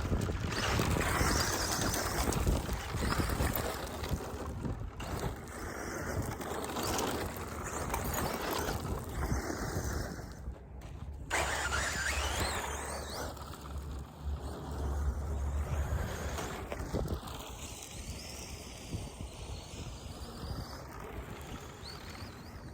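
Electric RC short-course truck (Team Associated SC10 with a 13.5-turn brushless motor) driving on dirt: motor whine and tyres scrabbling, rising and falling as it speeds up, turns and slows, with a brief drop a little before halfway. Wind rumbles on the microphone.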